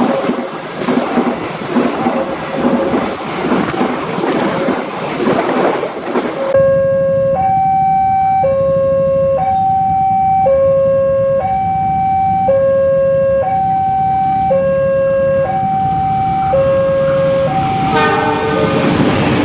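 Railway level-crossing warning alarm sounding: an electronic two-tone signal alternating between a low and a higher tone, each held about a second, warning of an approaching train. It starts abruptly after several seconds of loud rushing noise, and a train's noise rises again near the end.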